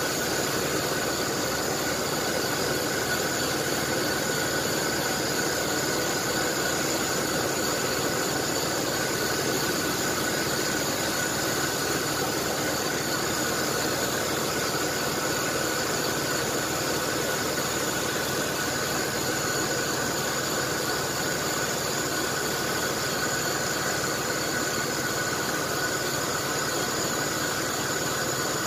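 1994 Chevrolet S10 Blazer's 4.3 L CPI V6 idling steadily on its new spider injector, with a steady high-pitched whine over it.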